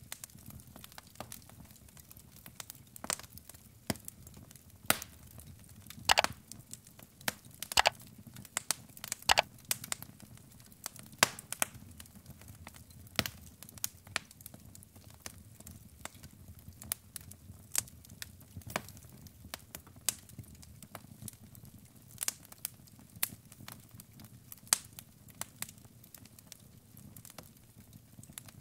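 Wood fire of burning logs crackling, with irregular sharp pops over a low, steady rumble of the flames.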